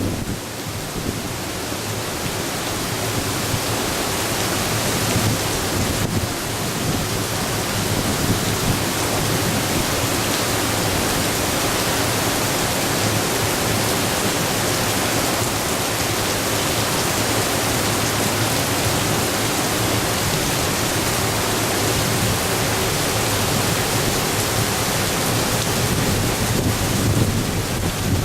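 Typhoon wind and torrential rain making a steady rushing noise, building a little over the first few seconds and then holding.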